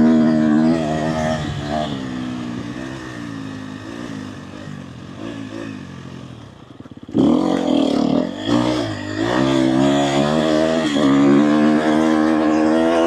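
Dirt bike engine under way: the revs fall away off the throttle for about seven seconds, then the throttle snaps open about seven seconds in and the engine pulls hard, its pitch climbing and dipping through the rest.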